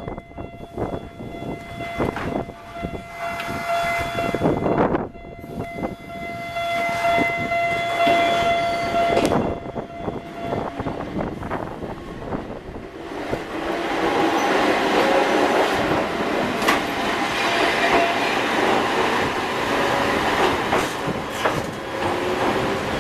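Toyama Chiho Railway train passing over a level crossing, with wind buffeting the microphone. For roughly the first half the crossing's warning bells ring as steady tones; about halfway through the rolling noise of the wheels on the rails grows louder and takes over.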